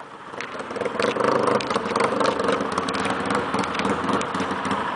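Motorcycle engine running steadily at low revs, fading in over the first second.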